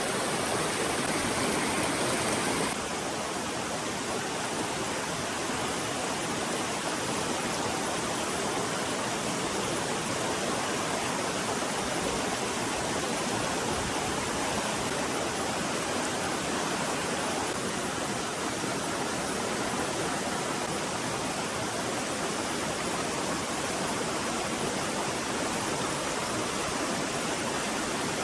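Stream water rushing steadily, a little quieter after an abrupt change about three seconds in.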